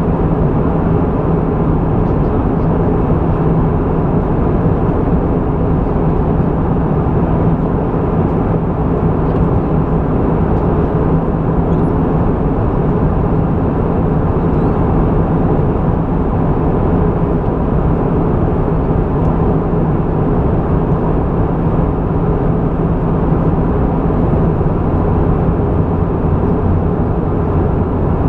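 Airbus A320 in flight heard from inside the cabin: a steady drone of engine hum and rushing airflow, with a constant low tone under it.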